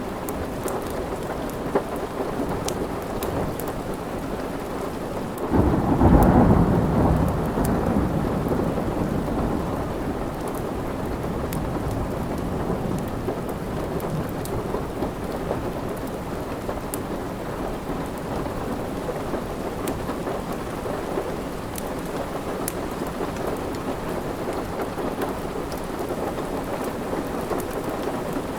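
Steady rain falling, with a roll of thunder that breaks in suddenly about five and a half seconds in and fades away over the next few seconds. Scattered faint ticks run through it.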